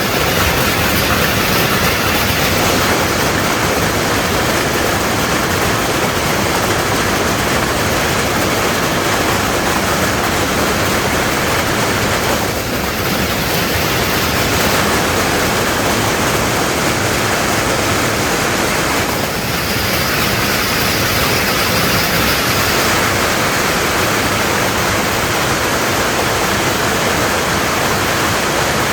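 Heavy hail coming down, a loud, dense, steady rush of countless hailstones striking, with brief changes in the sound about thirteen and nineteen seconds in.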